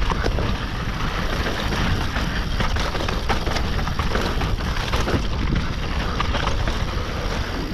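Mountain bike descending a dirt trail: wind noise on the microphone over the rolling tyres, with frequent short clatters and knocks as the bike runs over rough ground.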